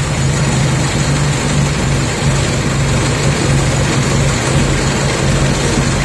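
1927 Fordson tractor's four-cylinder engine running steadily.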